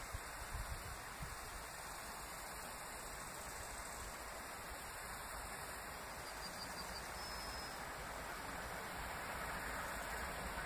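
Steady hiss of wind and rustling trees, with the low rumble of a distant train approaching on the line growing slowly louder toward the end.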